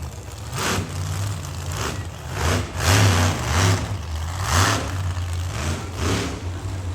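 Monster truck engine revving in repeated bursts of throttle over a steady low running note, heard from the stands.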